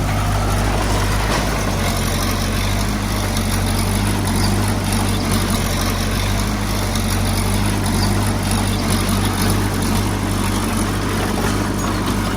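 Heavy-equipment diesel engine running steadily at a constant speed, with no revving.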